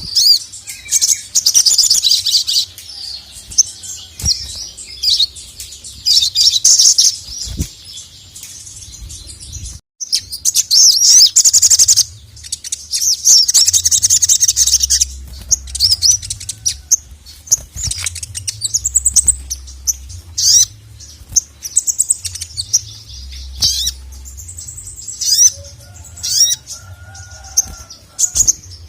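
Male sogon (sogok ontong) singing hard in repeated bursts of rapid, high-pitched chattering notes, with short pauses between bursts.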